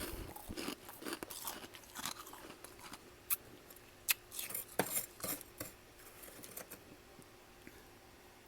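Close-up chewing and crunching of freezer frost in the mouth: a rapid run of crisp, irregular crunches that thins out to a few soft ones near the end.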